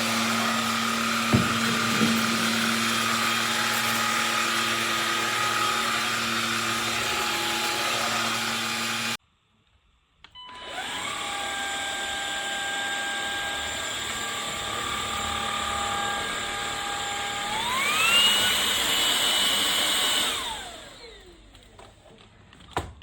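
Cordless stick vacuum cleaner with a brushless motor running with a steady whine, which cuts out abruptly about nine seconds in. It starts up again a second later, rises in pitch as it speeds up, then is switched off and winds down with a falling whine near the end.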